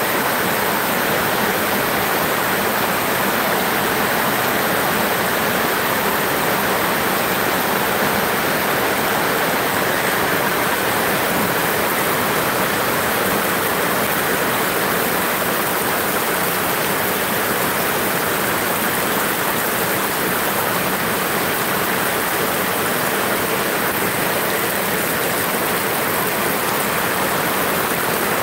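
Heavy rain: a steady, even hiss of a downpour on the roofs and the ground, with water streaming off the eaves.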